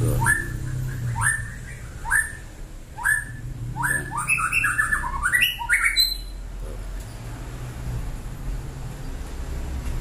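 A caged songbird calling. It gives a short rising note about once a second, then a quick run of notes that stops about six seconds in, over a low steady hum.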